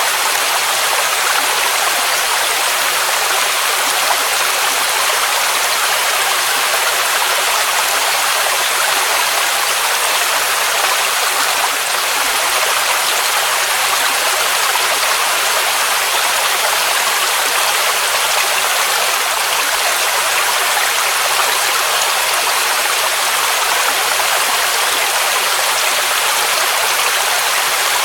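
Waterfall rushing, a dense, steady white-noise wash of falling water, mostly high hiss with little low rumble and no change in level.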